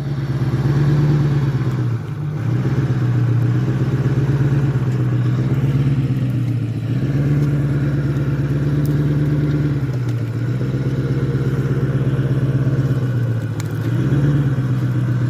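Ford F-350 pickup's engine running, its revs swelling and easing off several times as the truck creeps forward to take up slack in the tow chain.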